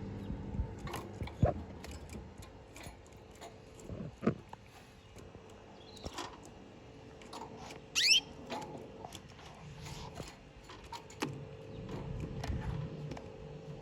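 Caged canaries: scattered small clicks and taps, with one short chirp about eight seconds in, over a faint steady hum.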